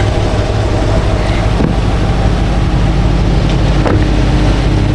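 Corvette's V8 engine idling with a steady, deep rumble.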